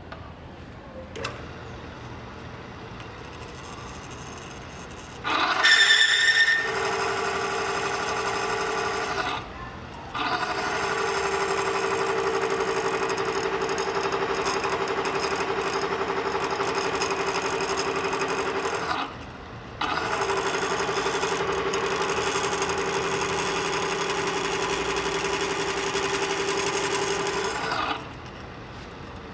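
A motor-driven machine switched on three times, running at a steady, unchanging pitch for about four, nine and eight seconds, each run starting and stopping abruptly. The first run opens with a brief high squeal.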